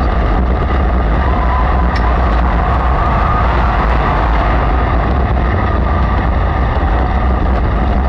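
Sprint car engines running, a loud steady rumble that holds without pauses.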